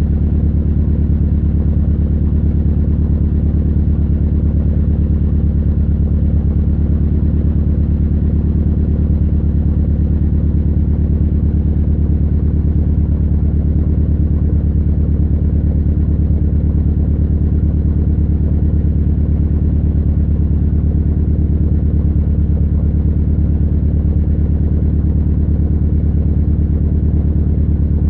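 Fiat Punto GT engine running on E85, idling steadily as it warms up after a cold start at 5 °C, with no revving.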